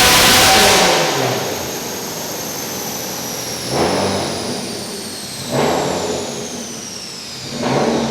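Subaru WRX STI's turbocharged flat-four at the end of a full-throttle dyno pull: a loud run that drops off about a second in. A high whine then falls slowly in pitch as the car winds down, with three short swells of engine noise along the way.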